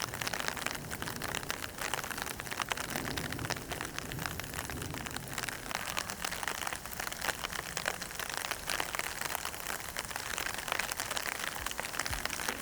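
Steady rain falling, a continuous hiss dense with many close drop ticks.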